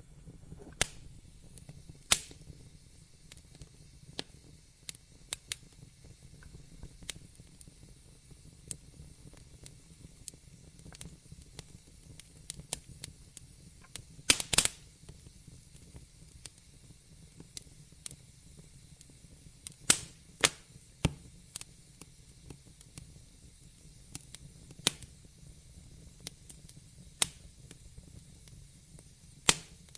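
Wood fire crackling: irregular sharp pops and snaps over a low, steady rumble of burning, with a few louder pops about 2 seconds in, around the middle, and about two-thirds of the way through.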